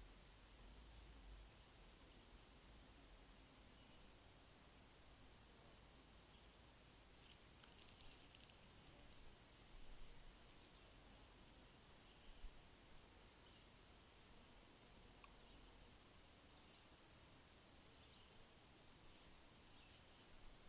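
Faint insect chirping, cricket-like: a high-pitched, fast, even pulse that keeps on with only a brief break, over a faint hiss.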